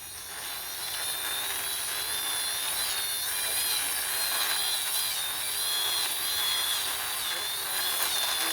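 Toy army jeep pushed along by hand, its wheels giving a steady high whir that wavers up and down in pitch over a hiss.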